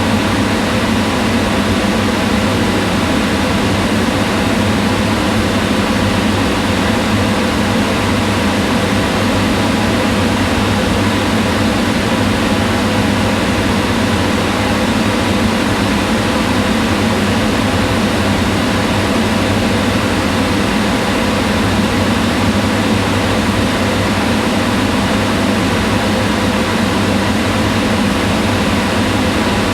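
Kitchen range hood exhaust fan running steadily: a constant rush of air with a low hum, unchanging throughout.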